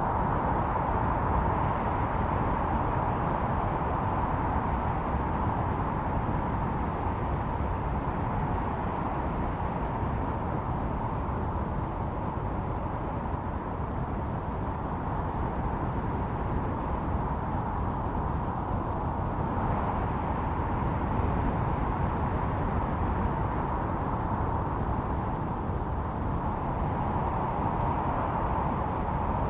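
Blizzard wind blowing steadily, with a howling tone running through it that swells and eases slowly.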